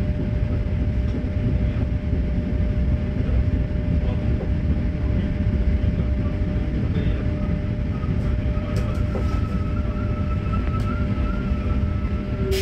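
Interior rumble of an RER B electric commuter train running and slowing into a station. A thin high whine joins the rumble about two-thirds of the way in.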